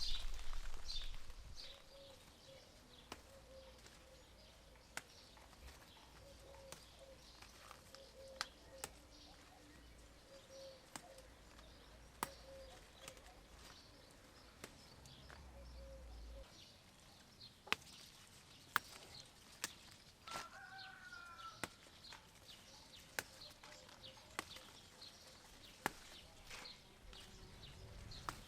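Quiet outdoor ambience of birds calling: a faint repeated low call through the first half and a short rising call about two-thirds of the way in, with scattered sharp ticks throughout.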